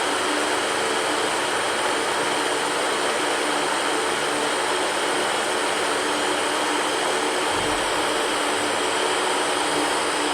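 Electric fan running steadily: an even whooshing hiss with a faint, steady hum under it.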